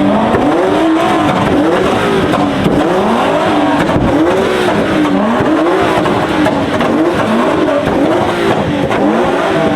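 Car engine revving up and dropping back over and over, about once a second, over loud tyre squeal.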